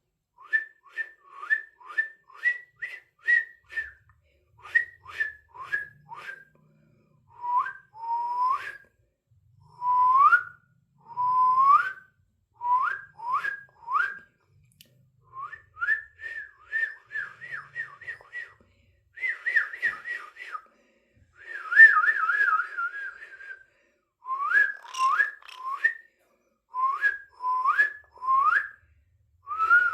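A person whistling a long run of short notes, many of them sliding upward, with a fast warbling trill about twenty seconds in.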